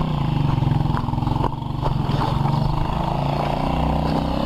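A motorcycle engine idling steadily, with a few light clicks or knocks.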